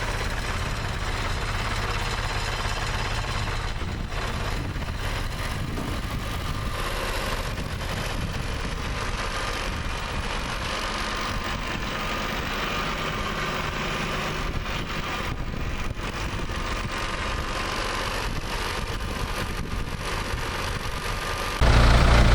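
An engine running steadily at idle. Near the end it abruptly becomes louder and deeper.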